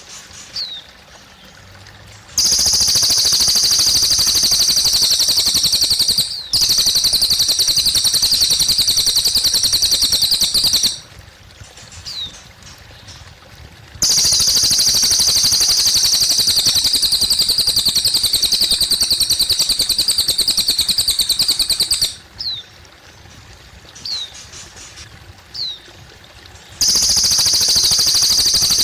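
Cililin bird singing long, rapid, high trills that last several seconds each, four of them, with short single chirps in the gaps between. Water trickles steadily underneath.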